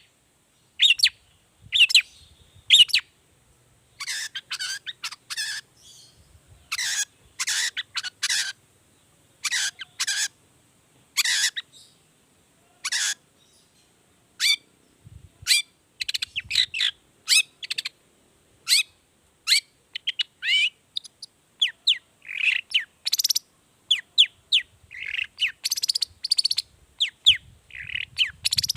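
Long-tailed shrike (cendet) singing a string of short, separate calls. Harsh, rasping notes come in the first half, giving way to quicker, thinner chirps and whistled notes in the second half.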